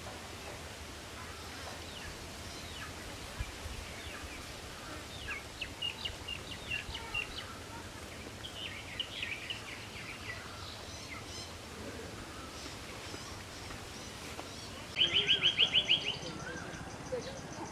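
Songbirds chirping in short scattered calls over steady background noise. About fifteen seconds in, a louder rapid run of about eight notes, roughly eight a second, lasting about a second.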